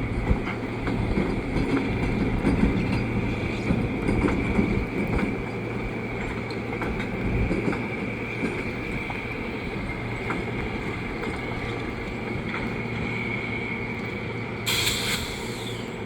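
EMD diesel road-switcher locomotives running in a rail yard: a steady low engine hum with a thin, steady high whine over it. A short noisy burst comes near the end.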